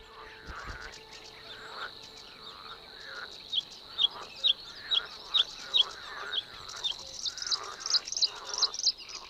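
Wetland birdsong: a bird calling in a series of short, sharp chirps about two a second, the notes pitched higher in the second half, over a steady high-pitched buzz.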